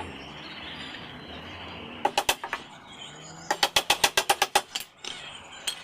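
Sharp knocks over a steady hiss: four quick strikes about two seconds in, then a fast run of about eleven knocks at roughly nine a second.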